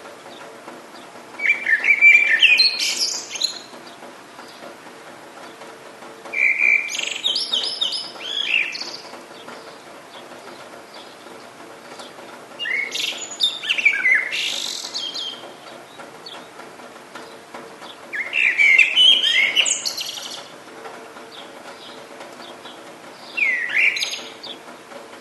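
A songbird singing five short, rapid phrases of warbling notes, each lasting one to two and a half seconds and spaced several seconds apart, over a steady low background hum.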